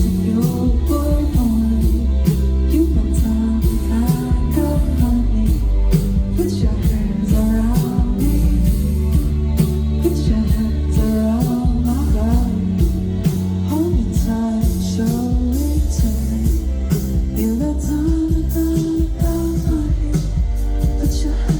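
Live song with singing over a deep sustained bass and a steady beat.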